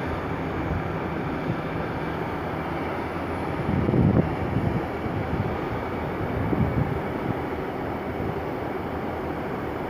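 Class 150 Sprinter diesel multiple unit running as it starts to pull out of the station: a steady rumble with a couple of louder swells about four and seven seconds in.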